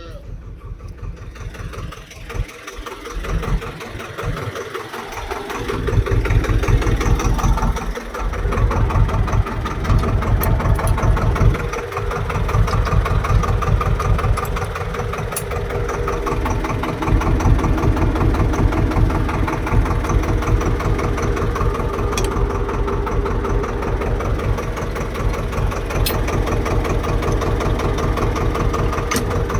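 Swaraj tractor's diesel engine starting up. It is quieter and uneven for the first few seconds, then runs loud and steady from about six seconds in, with a rapid, even diesel knock.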